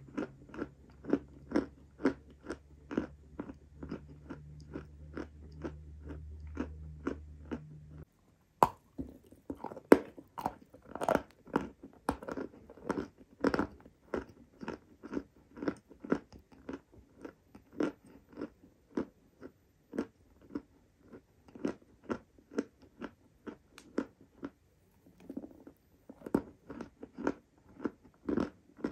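Close-miked chewing of a lump of crunchy chalky clay, crunching about twice a second. About nine seconds in comes a fresh sharp bite, followed by several seconds of louder, denser crunching before the chewing settles back to a steady pace.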